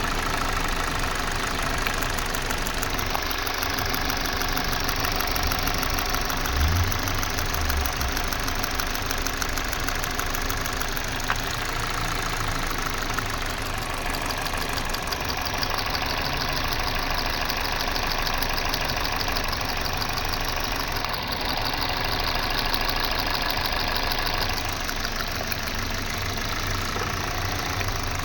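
Car engine idling steadily, an engine being checked for a misfire.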